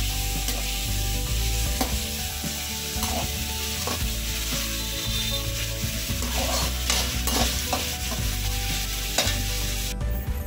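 Chopped onion, tomato and garlic sizzling in hot oil in a steel kadai while being sautéed, stirred with a perforated metal spoon that scrapes the pan now and then. The frying hiss cuts off suddenly near the end.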